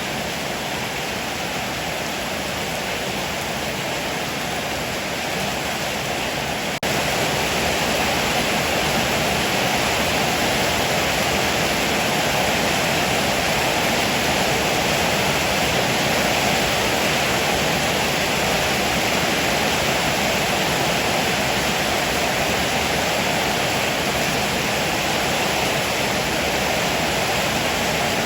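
Heavy rain pouring steadily, an even hiss with no thunder; it jumps abruptly louder about seven seconds in and stays there.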